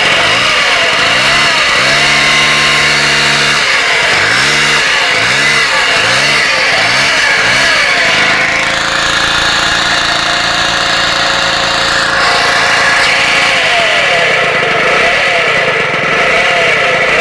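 Piaggio Ciao moped's small two-stroke single-cylinder engine running with a high, hissing whine like a vacuum cleaner, which the uploader connects with its bearings. The revs rise and fall in quick repeated blips, held steady for a second or more a couple of times.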